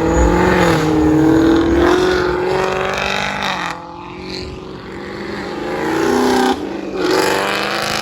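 Car engines running as cars roll past at low speed, the engine note wavering up and down. The loudest engine fades about four seconds in, and another builds and drops off sharply about six and a half seconds in.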